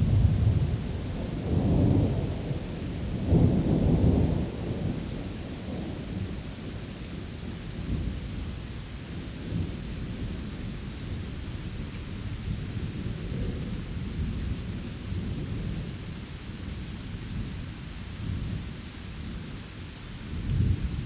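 Rain ambience with rolling thunder: low rumbles swell twice in the first few seconds and again near the end over steady rainfall.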